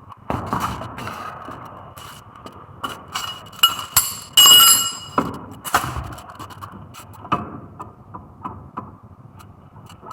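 Metal tools and parts being handled during brake work: irregular clinks, knocks and scrapes, with a brief metallic ring about four and a half seconds in.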